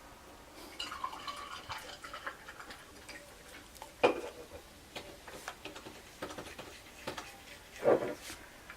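Toothbrush scrubbing a dog's teeth: quick scratchy ticks and clicks of the brush against the teeth, with a sharp click about four seconds in. A short vocal sound comes near the end.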